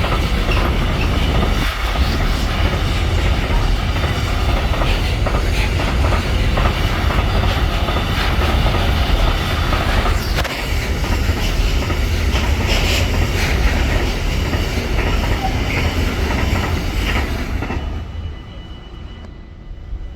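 Freight train passing close by, its wagons' wheels rumbling and clacking over the rails. The noise falls away sharply near the end as the last wagon goes by.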